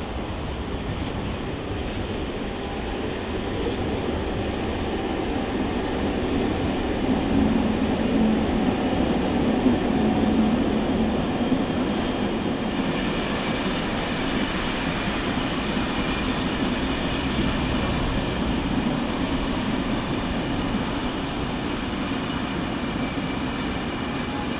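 Electric trains moving through a station: a Corail train behind an electric locomotive, then a Régio 2N double-deck electric multiple unit, wheels rumbling steadily on the rails. The rumble swells about a third of the way in, and a high steady whine joins about halfway through.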